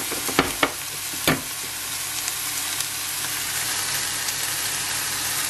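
Diced onions sizzling steadily as they fry in a stainless-steel pan, with a few sharp clicks in the first second and a half.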